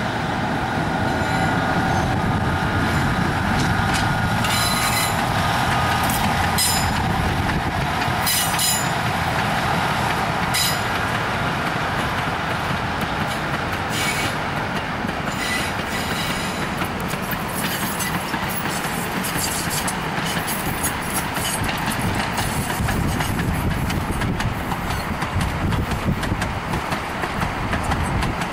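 Narrow-gauge sugar cane train passing: the diesel locomotive runs with a long rake of cane bins rolling behind it, a steady rumble with sharp wheel clicks over the rail joints scattered through it.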